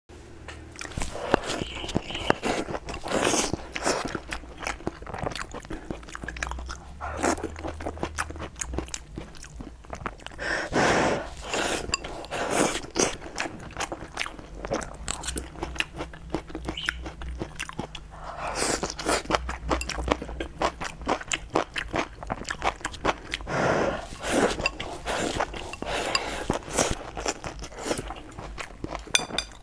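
Close-miked eating sounds: a person chewing mouthfuls of rice with tomato and scrambled egg, with many short wet mouth clicks throughout and a few louder bursts of chewing.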